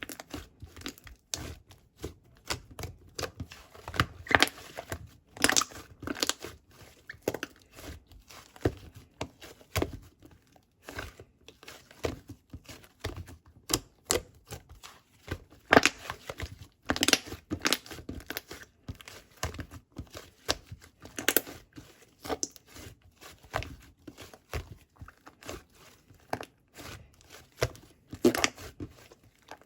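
Irregular crinkling and crackling handling noises, short sharp crackles and tearing-like strokes coming at an uneven pace.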